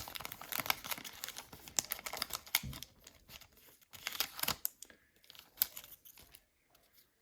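Trading cards and a crinkly foil pack wrapper being handled: crackling and rustling with short clicks, busy for the first few seconds and then only a few scattered clicks.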